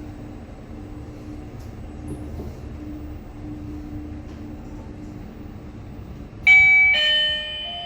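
IFE Joymore passenger lift car travelling down with a steady low hum. Near the end, its arrival chime sounds two ringing notes, the second lower, marking arrival at the floor.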